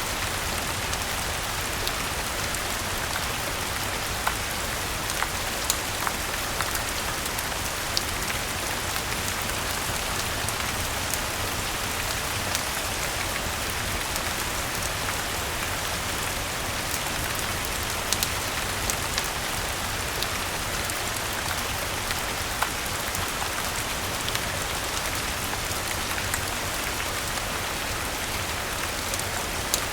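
Steady rain falling, an even hiss, with scattered sharp clicks and pops every second or two.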